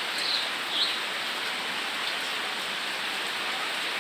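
Rain pouring down steadily, an even hiss, with a few brief high squeaks in the first second.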